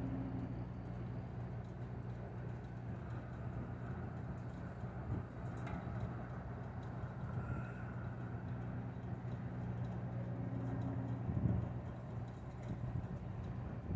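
A vehicle engine idling steadily, a low even hum, with a brief louder bump about eleven seconds in.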